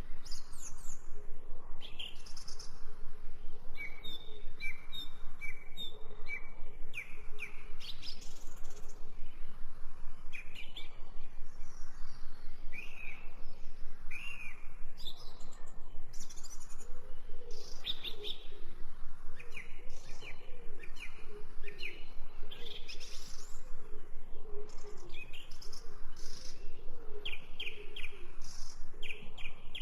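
Birds chirping and singing, many short calls and trills overlapping throughout.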